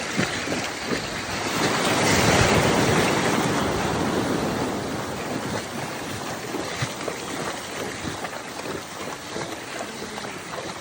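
Sea surf washing in on a beach, with wind on the microphone; the wash swells about two seconds in and then slowly eases.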